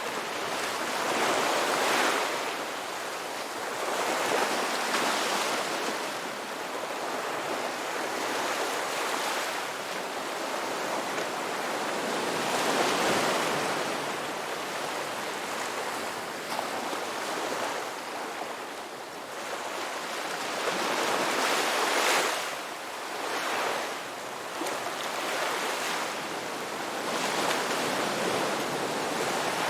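Ocean surf washing onto a beach: a continuous hiss of water that swells every few seconds as waves come in and then fades.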